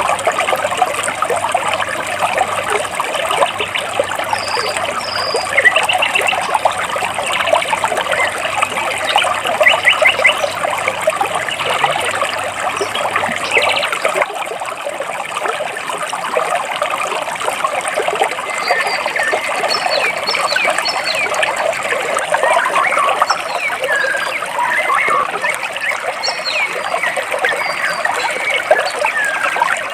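Water trickling and splashing between rocks in a stream, steady throughout, with birds chirping over it: a couple of high chirps about four seconds in, and many short chirps and quick falling whistles in the second half.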